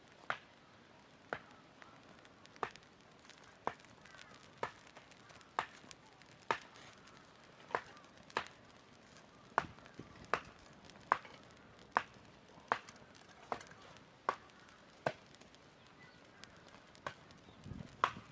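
Wood being chopped with a hand axe or blade: a steady series of sharp strikes, about one a second.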